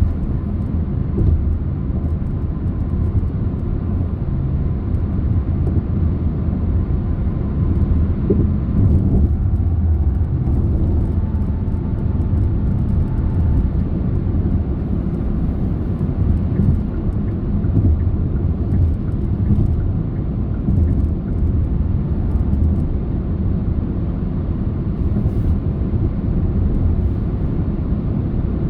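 A car driving at steady speed: continuous low rumble of tyres on the road and engine hum, with no changes.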